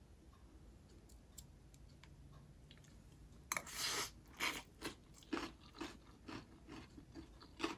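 A person bites into a mouthful of crunchy vegetarian rice-noodle salad with crisp raw and stir-fried vegetables, then chews it with a run of crisp crunches about twice a second. The loudest crunch, the bite, comes about three and a half seconds in.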